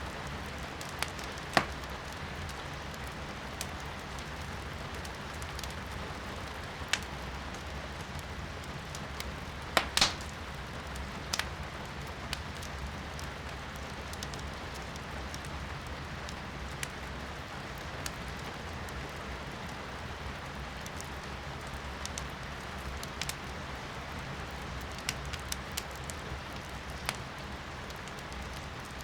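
Firewood burning in a fireplace, crackling with scattered sharp pops, the loudest about ten seconds in. Steady rain can be heard from inside the room.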